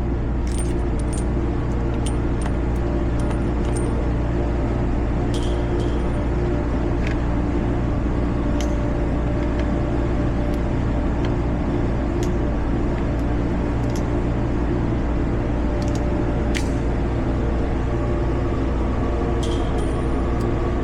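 A steady low mechanical hum, with small clicks and clinks scattered through it.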